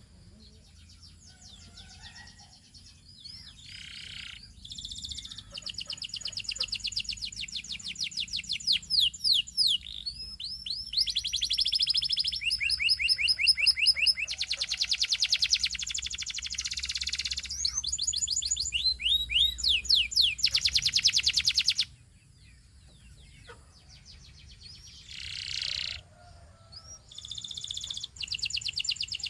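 Canary singing a long song of fast trills and rapid runs of repeated high notes. It breaks off about 22 seconds in and starts again near the end.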